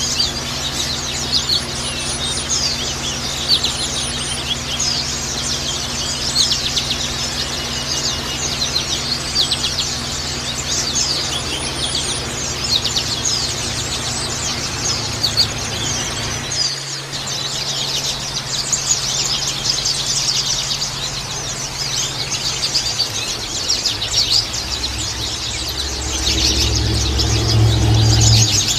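A flock of white-eyes (pleci) chattering and singing in fast, high, overlapping twitters. A steady low hum sits underneath, and a low rumble swells over the last few seconds.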